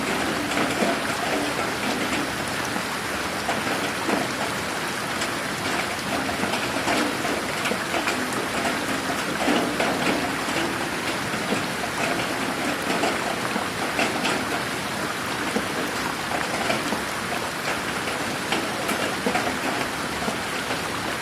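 Steady rain falling in a garden, a continuous hiss with many individual drops pattering on surfaces.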